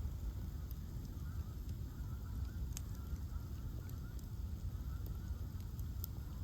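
Outdoor bonfire of ash logs burning, with a steady low rumble and a few sharp crackles and pops scattered through it. Faint wavering high tones come and go underneath.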